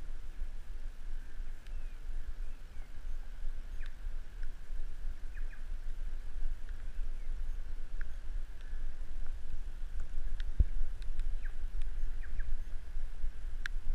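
Raindrops ticking now and then on the camera, over a low steady rumble, with a soft knock about ten and a half seconds in.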